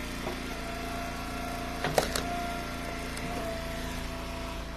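Eastonmade Ultra wood splitter's engine running steadily, with a higher whine joining in for about two seconds in the middle. A sharp knock comes about two seconds in.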